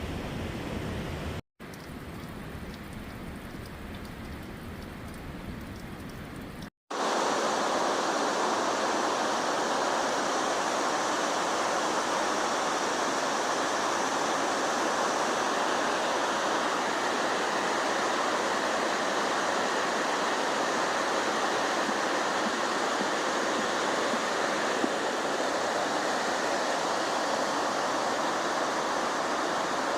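Waterfall running: a steady, even rush of falling water, starting abruptly about seven seconds in after two sudden cuts, louder than the softer rushing sound before it.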